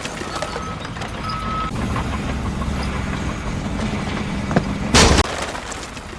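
Heavy vehicle engine running steadily, with two short beeps in the first two seconds and a loud sharp noise about five seconds in.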